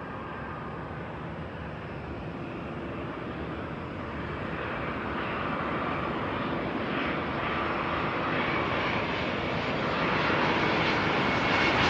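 Jet engines of a Sichuan Airlines Airbus airliner on final approach: a steady rushing engine noise that grows gradually louder as the plane comes closer, with a faint whine coming in near the end.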